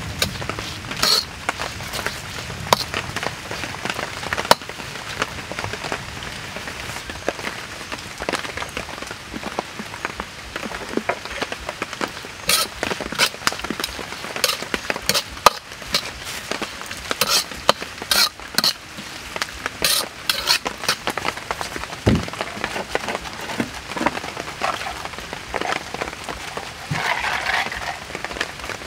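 Beef cubes and garlic sizzling in oil in a hot wok, with a metal ladle clinking and scraping against the wok as it stirs, giving many sharp ticks over a steady crackle.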